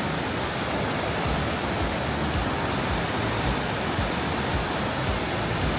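Rhine Falls waterfall heard up close: a steady, unbroken rush of falling water.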